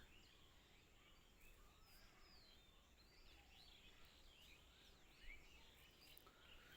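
Faint, scattered chirps of small birds over a very quiet outdoor background, with one brief soft low bump about five seconds in.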